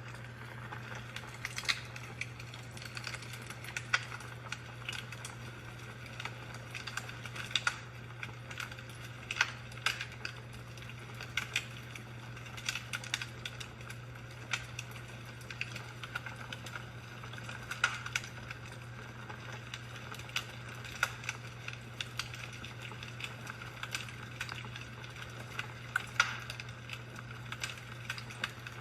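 Fireplace crackling, with irregular sharp pops and snaps every second or so over a steady hiss and a low steady hum.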